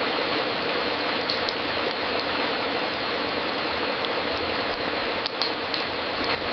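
Wood fire crackling in a fireplace: a steady hiss of fine crackle with a few sharper pops scattered through it.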